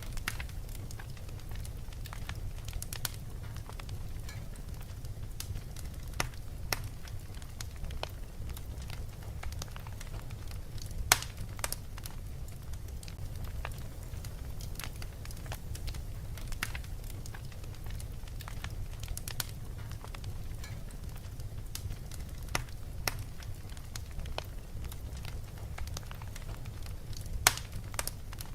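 Fireplace fire crackling, with irregular sharp pops, two of them louder, about a third of the way in and near the end, over a steady low rumble.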